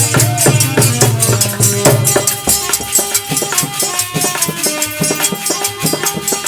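Instrumental interlude of a dehati bhajan: a fast, steady beat of hand percussion with bright jingling, under a held melodic line.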